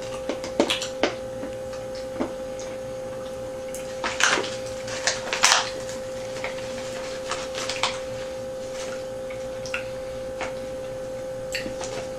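Scattered short rustles and clicks of candy packets being handled and the candy chewed, louder about four and five and a half seconds in, over a steady electrical hum.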